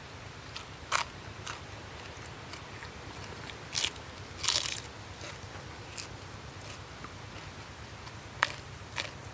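Close-up eating sounds: a person biting and chewing crisp food, including a piece of raw green vegetable, with a series of sharp crunching bites. The loudest bites come about a second in, around the middle, and near the end.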